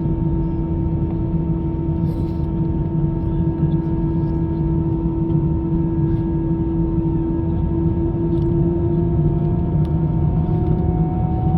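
Airbus A319 jet engines running steadily: a low rumble under several steady whining tones, one of which slowly rises in pitch from about eight seconds in.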